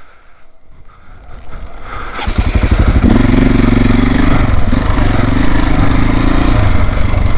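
Dirt bike engine coming to life about two seconds in, after the clutch is let out in first gear, then running loudly with a rapid, even firing beat.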